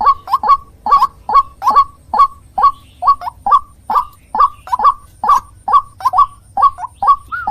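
White-breasted waterhen (ruak-ruak) calling: a steady run of short, loud notes, about two to three a second, each one falling in pitch.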